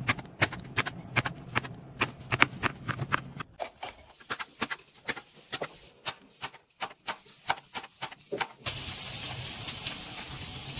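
Knife chopping vegetables on a cutting board in quick, even strokes, about three to four a second. Near the end the chopping stops and a steady hiss starts.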